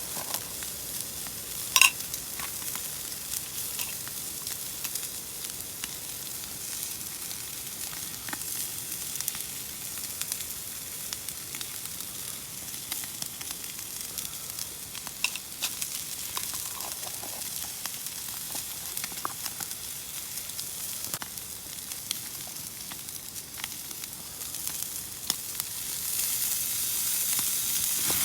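Food frying in a pan: a steady sizzle with scattered pops and crackles, one sharper pop about two seconds in, growing louder near the end.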